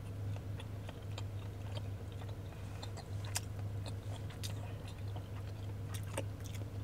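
Chewing a buttered bagel: soft wet mouth clicks and smacks scattered through, over a steady low hum.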